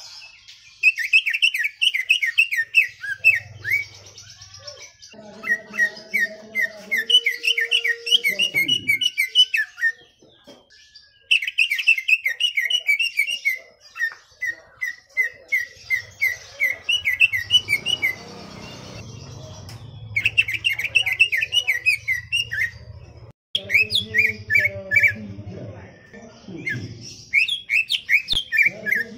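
Cucak ijo (green leafbird) singing in long phrases of fast, rapidly repeated chirping notes, with brief pauses between phrases. A low hum sits underneath for several seconds in the second half.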